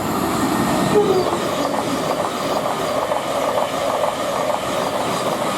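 Thameslink Class 700 electric multiple unit passing through the station: a steady rush of wheel-on-rail noise with a quick clatter of wheels over the rail joints.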